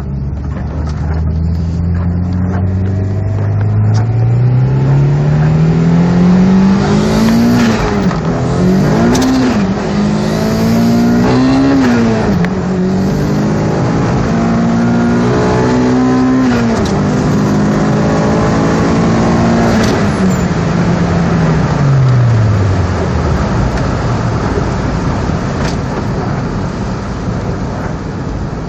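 Turbocharged B18C1 four-cylinder of an Acura Integra GSR, fitted with a Greddy turbo kit and an Apexi WS2 exhaust, pulling hard through the gears. The engine pitch climbs and drops sharply at each of about four gear changes, holds steady for a few seconds, then falls away near the end as the car slows.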